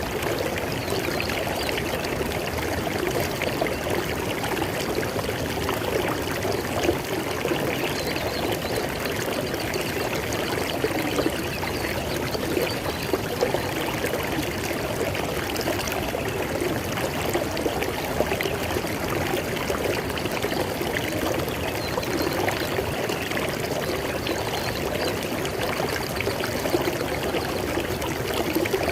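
River water flowing over rocks, a steady rushing with small irregular splashes.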